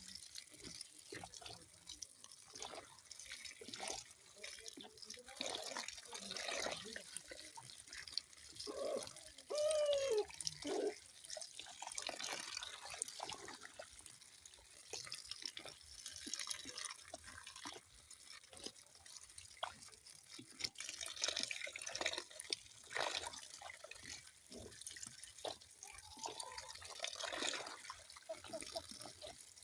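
Water dripping and splashing irregularly, with a brief bubbling gurgle about ten seconds in.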